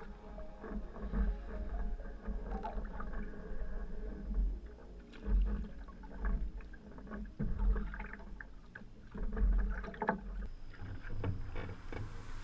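Sea kayak being paddled: paddle blades dip and splash in the water, with low thumps about every two seconds.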